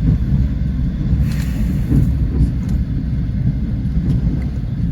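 Passenger train running along the line: a steady low rumble of the wheels on the rails, with a few faint clicks.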